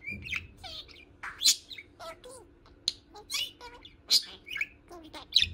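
Budgerigar chattering: a quick run of short, high chirps and whistled notes, some sliding down in pitch, with the loudest call about a second and a half in.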